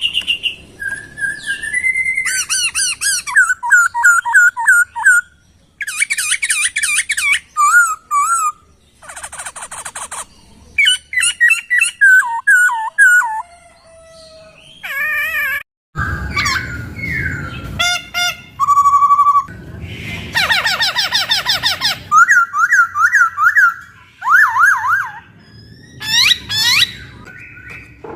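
A poksay (laughingthrush) singing a long, varied song: loud whistled phrases, quick runs of repeated notes and trills, with short pauses between phrases and a couple of harsher, rasping stretches.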